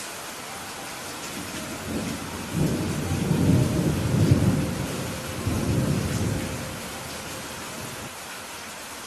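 Steady rain with a low rumble of thunder rolling in about two seconds in, swelling twice and dying away after about seven seconds.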